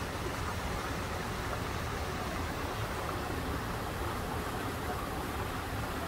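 Steady background hiss with a low rumble underneath, even throughout, with no distinct sounds standing out.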